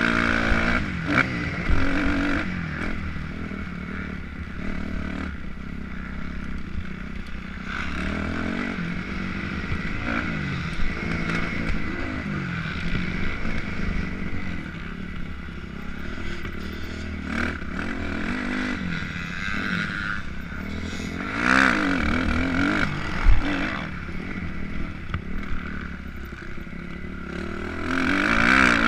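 Motocross dirt bike engine being ridden, revving up and down again and again as the throttle opens and closes, with louder surges near the end. Clattering knocks from the bike over the rough track and a low wind rumble run underneath.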